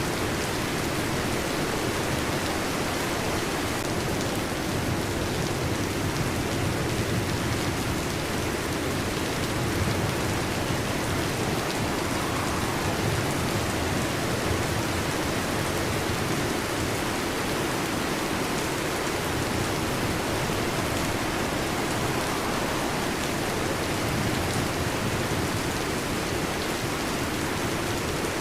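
Heavy rain falling steadily, an even hiss that neither builds nor fades.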